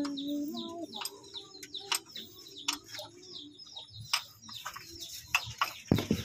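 Small birds chirping, many quick short chirps one after another, mixed with a few sharp clicks.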